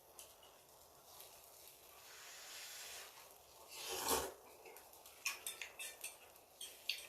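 Close-mic eating sounds: chewing with wet mouth clicks, a louder scrape about four seconds in, then a quick run of sharp clicks.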